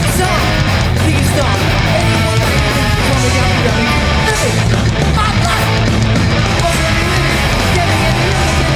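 Live hardcore punk band playing at full volume: distorted electric guitars, bass and drums, steady throughout.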